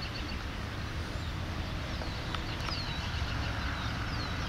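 Outdoor ambience of a steady low rumble and hiss, with a bird giving several short falling chirps.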